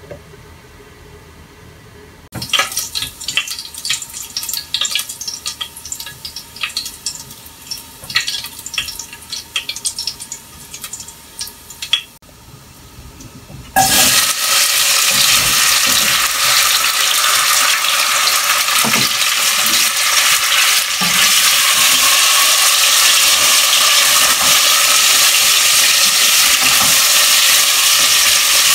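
Food frying in a hot pan on a gas hob: scattered crackles and pops. About halfway through, a loud steady sizzle starts as chopped vegetables are tipped from a wooden board into a stainless saucepan, and it carries on while they are stirred with a wooden spatula.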